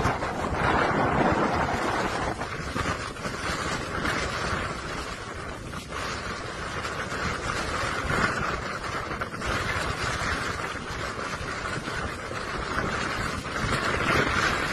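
Storm wind blowing hard and unevenly, rising and falling in strength and rumbling on the microphone.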